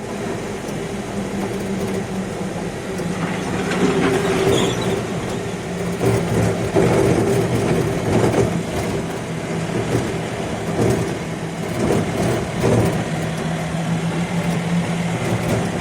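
Heavy rain falling as a steady hiss, over a steady low engine hum from a vehicle or traffic.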